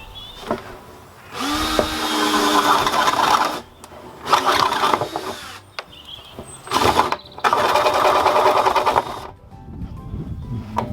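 Power drill boring out a hole in the side of a plastic water butt to enlarge it. It runs in four bursts, each up to about two seconds long, with short pauses between them.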